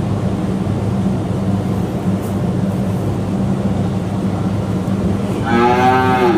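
A cow mooing once near the end, a single call of about a second that falls slightly in pitch, over a steady low hum.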